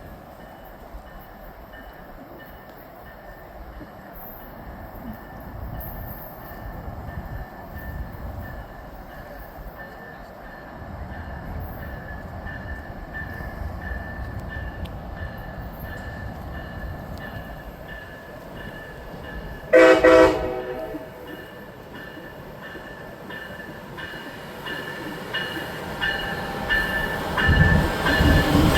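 Amtrak passenger train approaching: a bell ringing in steady, even strokes that grow louder, and one short, loud horn blast about two-thirds of the way through. The locomotives' rumble builds near the end as the train pulls in.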